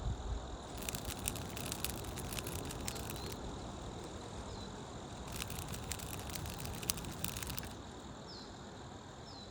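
Outdoor forest ambience: a steady low background with faint steady high tones, two spells of dense light clicking and crackling, and a few short high chirps near the end.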